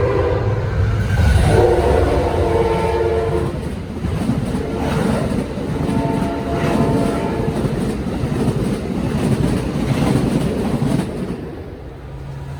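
Locomotive horn blowing a chord for about two seconds, starting about a second and a half in. It sounds over the rumble and wheel clatter of a train running through on the rails, which eases off near the end.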